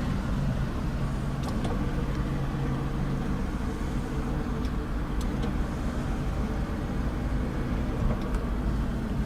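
Mazda 6's engine idling with a steady low hum, and a few faint clicks over it.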